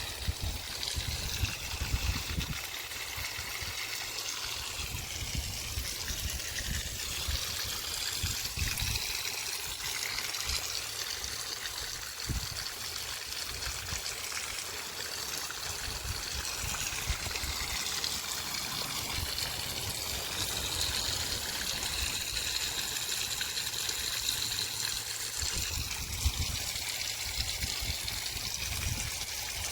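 Mineral spring water trickling and flowing steadily over travertine terraces, with occasional low rumbles underneath.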